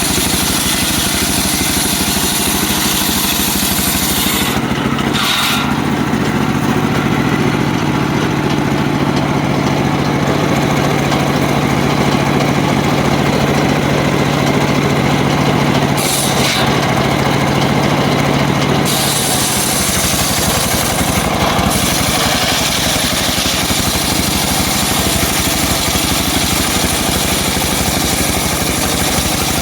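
Home-built circular sawmill running steadily and loudly, its engine driving the saw blade. A steady low hum joins in from about five to nineteen seconds in.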